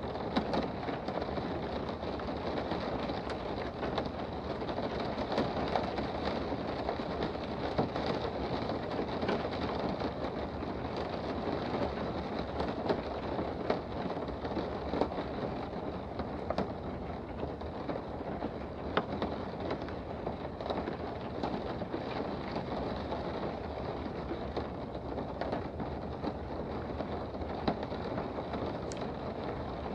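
Steady rain heard from indoors: an even, continuous hiss of rainfall with scattered sharper drop ticks.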